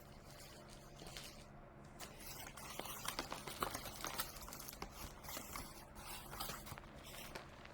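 Faint rustling and crinkling of paper and packaging being handled and unpacked, with many small ticks and scrapes that pick up about two seconds in.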